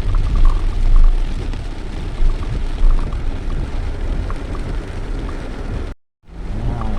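Steady road and engine rumble of a moving car heard from inside, with a noisy hiss over it; the sound cuts out abruptly for a moment about six seconds in.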